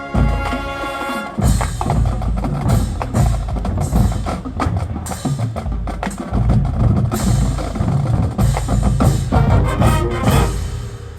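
Marching band drumline playing a loud, fast percussion passage: rapid snare and bass drum strokes with sharp accents, stopping near the end.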